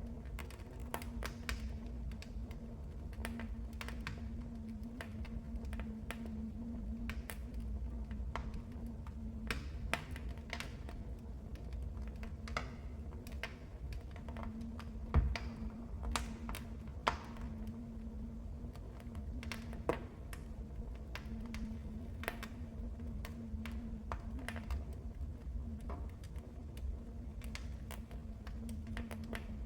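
Wood fire in a fireplace crackling, with frequent irregular sharp pops and snaps over a low steady rumble. One louder pop comes about halfway through.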